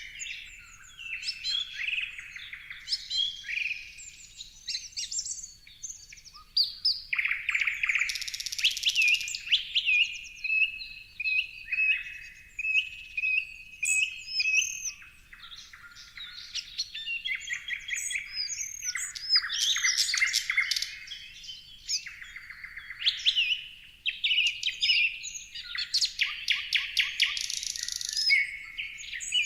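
Several songbirds chirping and singing at once: a dense, continuous mix of short high chirps, trills and rising whistles that overlap without a pause.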